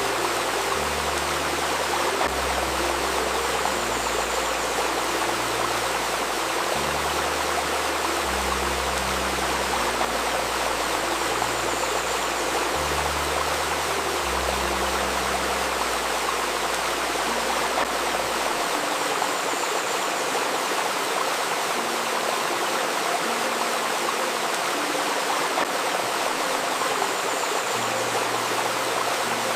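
Steady rushing and babbling of a flowing river, with soft healing-music tones layered underneath: low held notes that change pitch every second or two. The deepest notes drop out about two-thirds of the way through.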